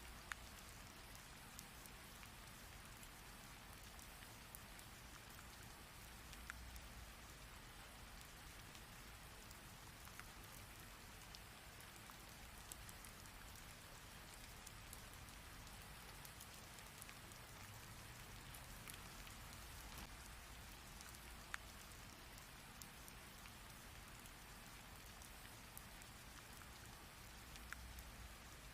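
Heavy rain falling steadily: an even hiss of rain with scattered sharper ticks of single drops striking.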